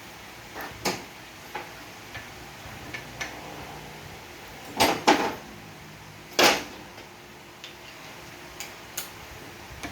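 Metal automatic-transmission parts clinking and knocking as they are handled and set down on a bench. There are a few light clicks, and two louder clattering knocks about five and six and a half seconds in.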